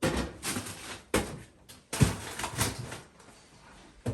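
Rummaging through a refrigerator: containers and food items being moved and knocked about, with a few sharp clatters about a second apart and rustling handling between them.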